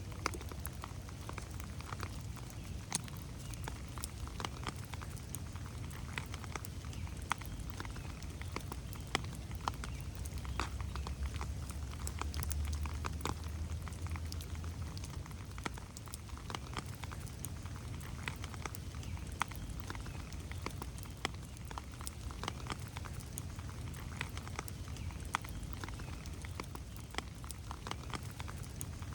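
Rain falling in a forest: irregular drops ticking and pattering on leaves and the ground over a steady low rumble that swells for a few seconds around the middle.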